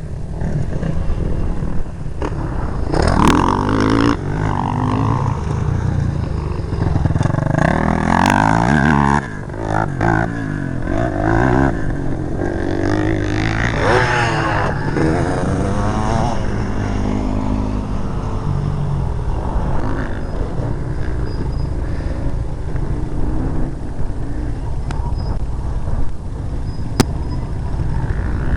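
Motocross bike engine revving and easing off as it rides, its pitch rising and falling several times, most strongly in the first half.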